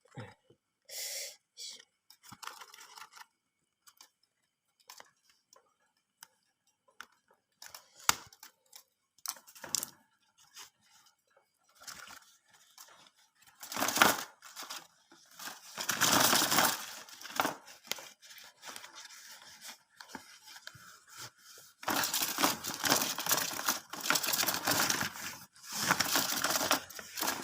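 Packaging being torn open by hand: tape and paper tearing and crinkling, with a few small clicks at first, then several stretches of tearing, the longest and loudest near the end.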